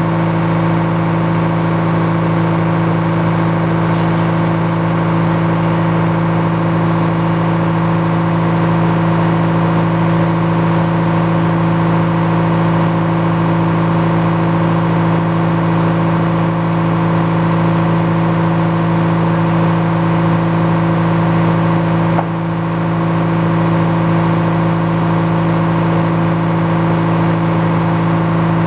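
Engine running steadily at a constant speed, with a brief dip in level about three-quarters of the way through.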